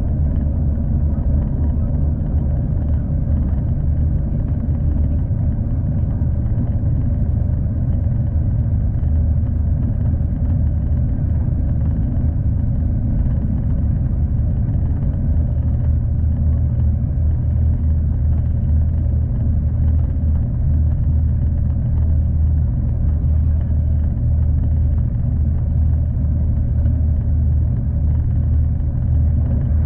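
Steady low rumble of a V/Line passenger train running along the line, heard from on board.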